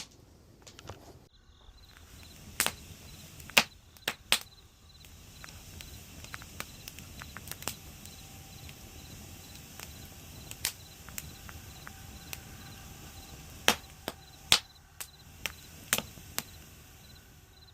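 Small wood campfire crackling: a steady low hiss broken by sharp, irregular pops and cracks, about a dozen over the stretch.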